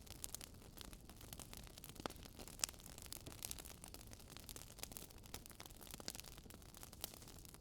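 Faint crackling of a wood fire: irregular small pops and snaps over a low hiss, with one louder pop about two and a half seconds in.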